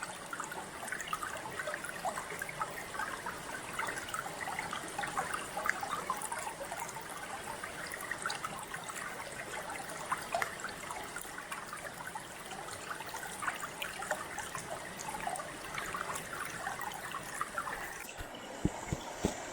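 Small waterfall and stream splashing and trickling over rocks, with a few low thumps near the end.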